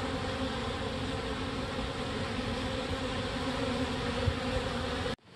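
Honey bee swarm buzzing: a steady drone of many wings with a low hum running under it, cutting off abruptly near the end.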